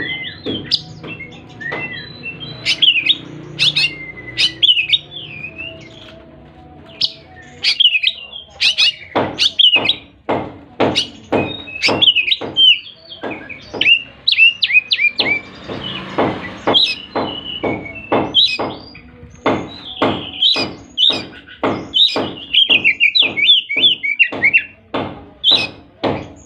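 Oriental magpie-robin (kacer) singing energetically, a run of varied whistled phrases and quick up-and-down trills. Through the second half, sharp knocks of about two a second are heard with the song and are the loudest thing.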